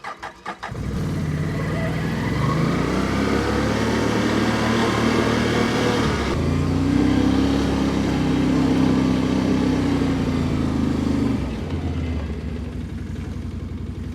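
Chainsaw starting with a few quick pops, then running at high revs. Its pitch rises about six seconds in and drops back to a lower speed near the end.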